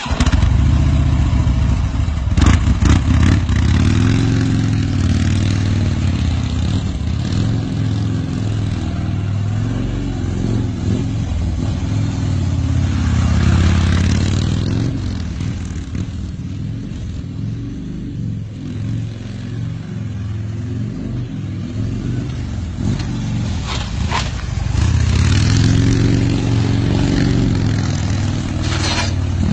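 Motorcycle engine running and being revved several times, its pitch rising and falling, with a few sharp clanks.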